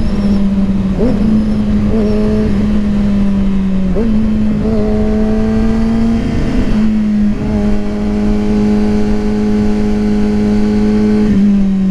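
Kawasaki ZX-6R (636) inline-four engine running at a steady, fairly high pitch while the motorcycle cruises, over a rush of wind noise. The pitch dips and recovers a few times, steps up slightly about four seconds in, and eases down slightly near the end.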